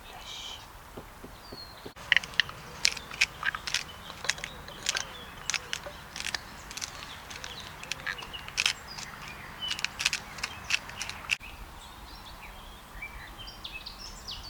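Campfire crackling, with many irregular sharp pops and snaps from the burning wood; birds chirp faintly in the background near the start and end.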